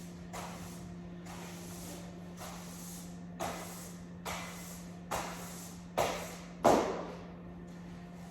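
Broom bristles sweeping across a hard floor in about eight short brushing strokes, roughly one a second, the loudest near seven seconds in. A steady low hum runs underneath.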